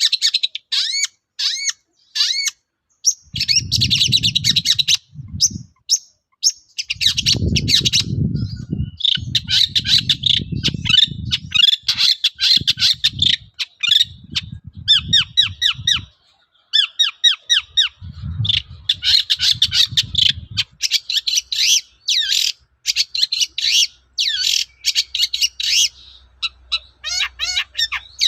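Long-tailed shrike (cendet) singing a fast, chattering song of rapid sweeping notes in bursts with brief pauses, the kind of song kept birds deliver full of mimicked calls. Bursts of low rumbling noise come and go under the song during its first two-thirds.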